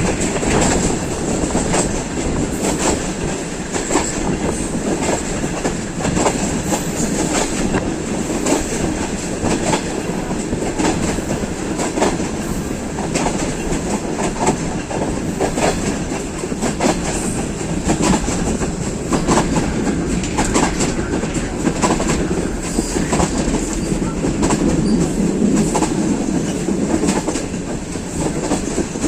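Passenger train running along the track: a steady rumble, with irregular clicks and clatter from the wheels over the rail joints.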